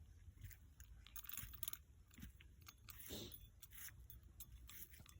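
Near silence, with faint scattered clicks and a brief soft rustle about three seconds in.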